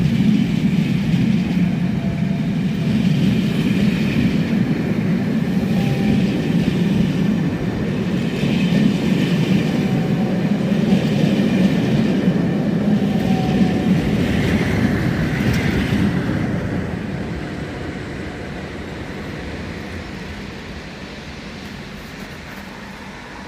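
Charter train hauled by Class 47 diesel locomotives running along the track, a steady rumble with wheels on rails. It fades away over the last several seconds as the train draws off.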